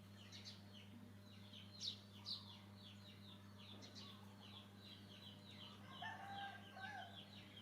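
Faint, rapid high chirping of birds, with two short lower call notes about six seconds in, over a steady low hum.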